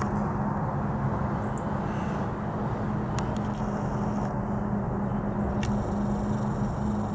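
Steady low mechanical drone with a constant hum and a rumble under it, like an engine running at a distance. A few faint ticks show about three seconds in and again near the end.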